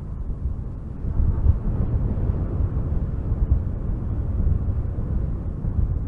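Strong wind gusting through spruce trees, a deep, even rush that swells about a second in.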